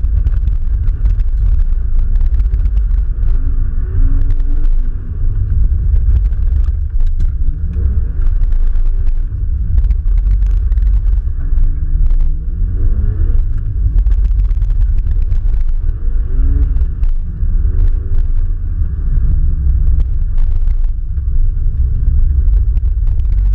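Nissan R32 Skyline GT-R's engine heard onboard during a hard autocross run, revs repeatedly climbing and dropping over a heavy steady rumble as the car accelerates, shifts and lifts between corners. The sound is muffled, picked up by a camera in its sealed housing.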